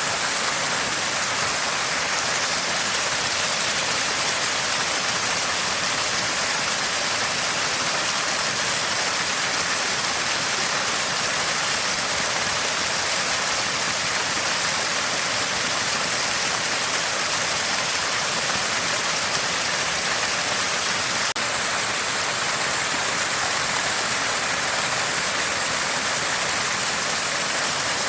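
Water from a small spring gushing and gurgling steadily, an even hiss strongest in the high range.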